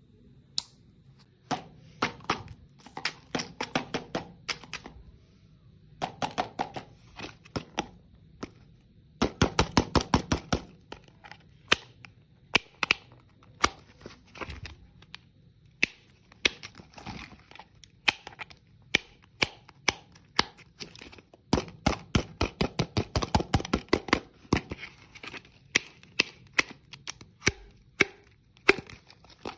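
Hard candy crunching and cracking: runs of sharp crackles in bursts, some dense and rapid, with short pauses between.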